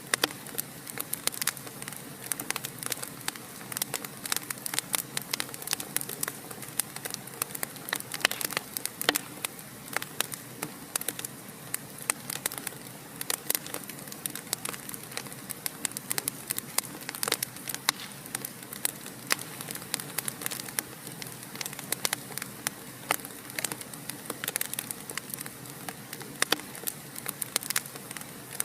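Wood fire burning in a fireplace, crackling with frequent sharp, irregular pops over a steady hiss.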